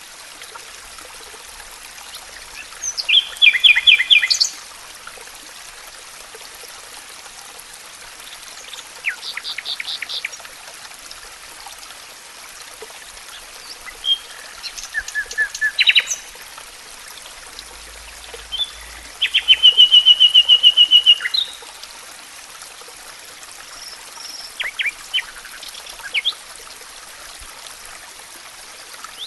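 Songbirds singing in short phrases every few seconds, including a rapid trill, over a steady rush of running water from a stream.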